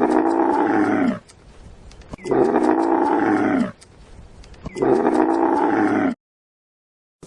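A large animal calling three times, each call about a second and a half long and pitched, sliding slightly downward, with short pauses between; the sound cuts off abruptly about six seconds in.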